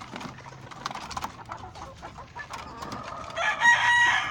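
Game fowl rooster crowing once near the end, a loud held call that falls in pitch as it trails off. Faint scattered clicks come before it.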